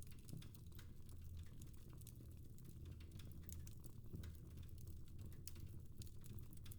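Fire crackling in a fireplace: quiet, irregular small pops and ticks over a faint low hum.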